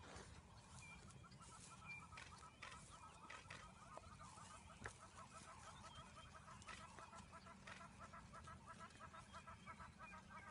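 Faint bird calls: a rapid, steady train of short repeated clucking notes, with a low steady rumble underneath.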